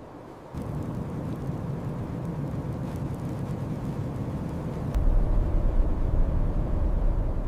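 Blizzard wind: a steady rushing noise that comes in about half a second in and turns louder and deeper about five seconds in.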